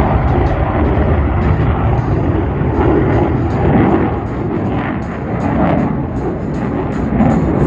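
Loud, steady jet noise from Blue Angels F/A-18 jets in flight, swelling and easing slightly as the aircraft move about the sky.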